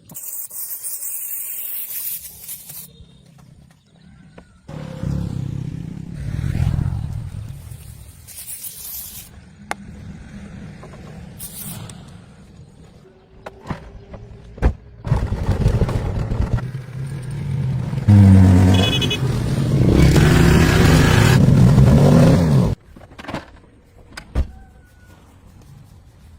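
An old car's engine running, heard in short edited clips that cut in and out abruptly, with a few sharp knocks in between.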